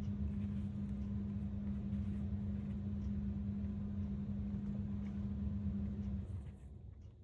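A small electric motor hums steadily with one strong low tone, then switches off about six seconds in and winds down.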